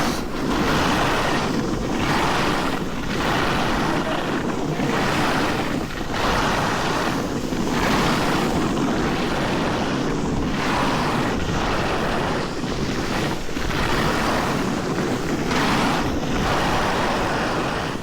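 Skis scraping and carving on packed snow in a run of linked turns, each turn a swell of hiss about once every second or so, with steady wind rumbling on the microphone.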